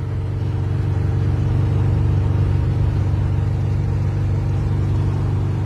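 A car engine running steadily with a deep, even pulse, easing off slightly near the end.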